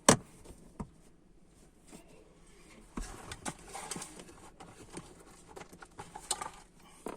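Scattered clicks, knocks and rustling of parts being handled, with one sharp knock right at the start and clusters of small clicks about three and six seconds in.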